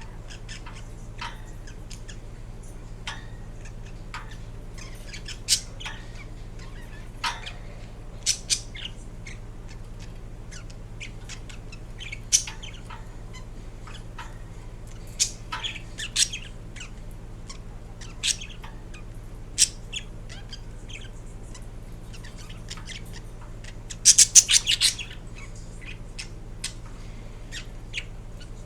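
Indian ringneck parakeet giving short, scattered chirps and squawks, with a quick run of louder squawks near the end. A steady low hum lies underneath.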